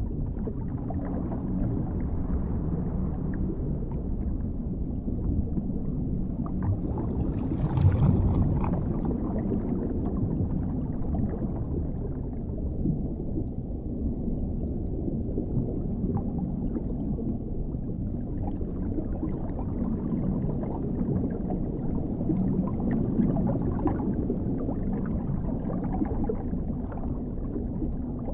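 Dark underwater ambience: a steady, muffled low rumble and wash with scattered small bubbling pops, swelling briefly about eight seconds in.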